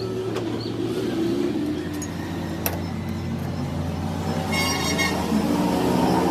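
A machine running steadily with an even hum, with a few sharp clicks and a brief high whine about three-quarters of the way through.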